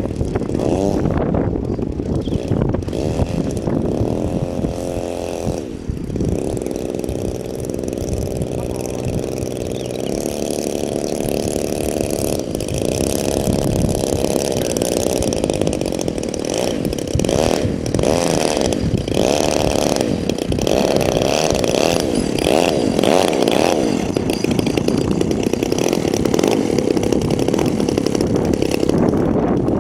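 Radio-controlled model airplane motor buzzing, its pitch rising and falling as the throttle changes, with wind buffeting the microphone.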